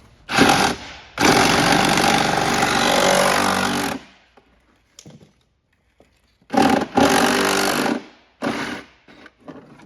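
Small gasoline engine on a Power Wheels quad conversion running in four short bursts, the longest about three seconds, stopping abruptly in between.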